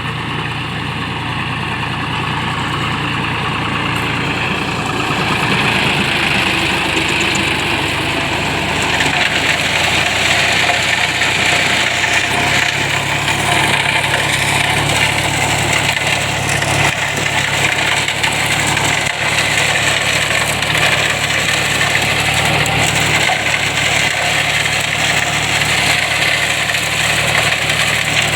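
John Deere tractor's diesel engine running steadily while driving a cotton shredder, with a growing hiss of machinery over the engine note. It gets louder over the first several seconds, and the engine note steps up about twelve seconds in.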